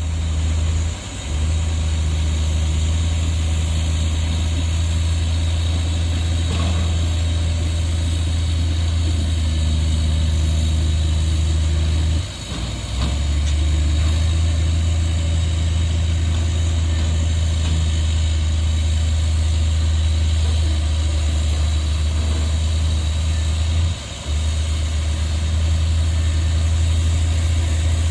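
Heavy diesel engine of an earthmoving machine running at a steady speed with a deep, even hum. It briefly drops three times: about a second in, near the middle, and near the end.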